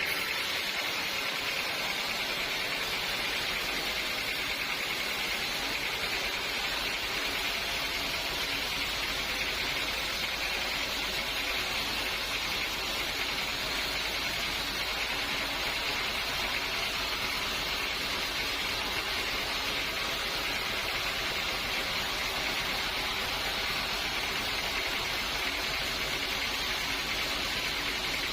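Sawmill machinery running steadily, an even hiss that does not change.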